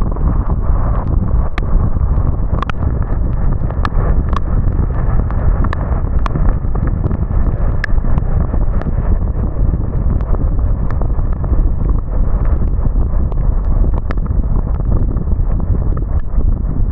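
Car on the move in rain: a steady low rumble of tyres and road, with sharp irregular taps of raindrops striking the car.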